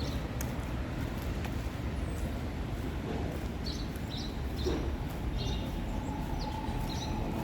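Town street ambience: a steady low traffic rumble, with short high bird chirps repeating from about halfway through. A steady tone starts about six seconds in and holds.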